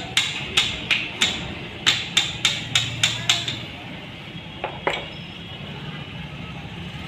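Hammer tapping on a gearbox part, about ten quick blows at roughly three a second, then two more a little later, to drive out or loosen a component during a gearbox strip-down.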